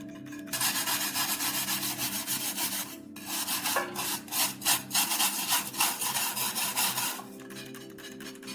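Abrasive rubbing on the knife's steel by hand, a steady rasp that gives way after a short pause to quick back-and-forth strokes, about three a second, before it stops.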